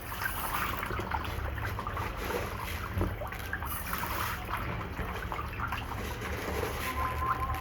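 Catfish feeding at the surface of a water tank, with many small, irregular splashes over a running trickle of water.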